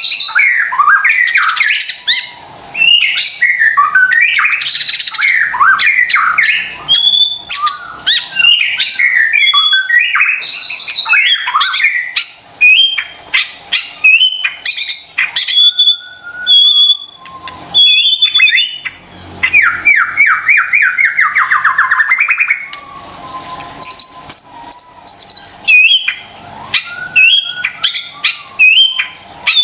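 White-rumped shama (murai batu) singing loudly and continuously: a varied run of sharp chirps, clicks and high whistles, with a fast rattling trill that falls in pitch about two-thirds of the way through. This is the full, energetic song used as a lure recording to provoke other shamas into singing.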